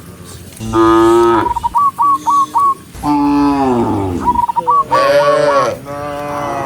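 Cattle mooing: four long, low moos, each falling in pitch. Between them come quick runs of short high chirps.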